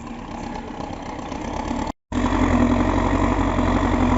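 MTZ tractor's diesel engine running hard as it pushes through deep, wet, loose snow, growing louder. The sound drops out completely for an instant about two seconds in, then comes back louder and closer with a steady low throb.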